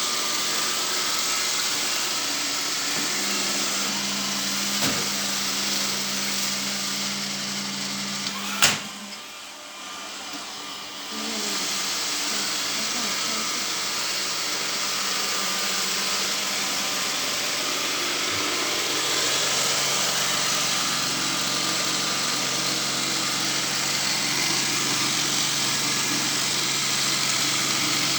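Powered sweeping machine running steadily. A sharp click comes about nine seconds in, then its sound drops for two or three seconds before picking back up.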